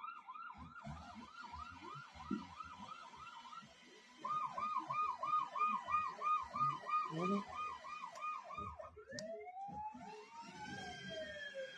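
Electronic police siren of a toy ride-on police car, sounding a fast yelp of about three to four chirps a second. It breaks off briefly, comes back louder, then changes to a slow rising-and-falling wail near the end.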